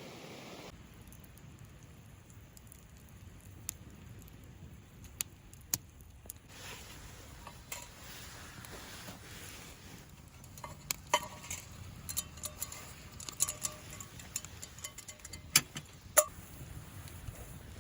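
Campfire cooking: scattered crackles and pops over a low steady rumble, growing busier about halfway through, with a few light clinks of metal cookware.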